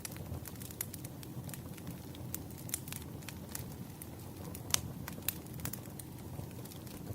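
Wood fire crackling: irregular sharp pops and snaps over a low steady rumble, with one louder pop about two-thirds of the way through.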